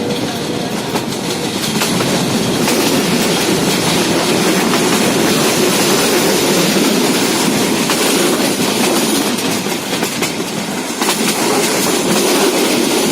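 A moving train rolling along the rails: a steady rumble with scattered clicks of the wheels over the track.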